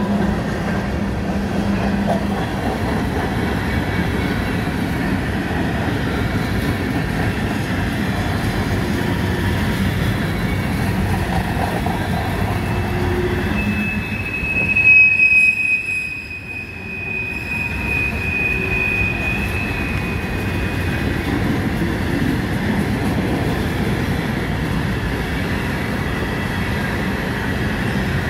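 Freight cars of a CSX manifest train, covered and open hoppers, rolling past close by with a steady rumble of steel wheels on rail. About halfway through, a wheel squeals with a high, steady tone for several seconds, loudest at its start.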